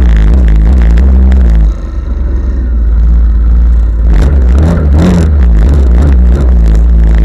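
Off-road vehicle engine revving hard through mud, the pitch rising and falling with the throttle; it eases off briefly about two seconds in, then builds again.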